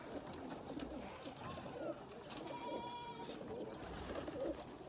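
Domestic pigeons cooing, several calls overlapping throughout, with a brief higher steady tone a little past halfway.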